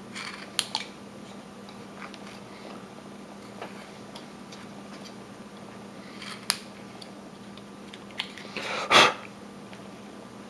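Carving knife cutting into wood: scattered small clicks and slicing scrapes as wood is dug out, the loudest a short scrape about nine seconds in, over a steady low hum.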